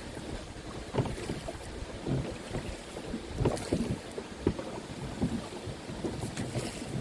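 Canoe paddle dipping and splashing in the water in irregular strokes, roughly once a second.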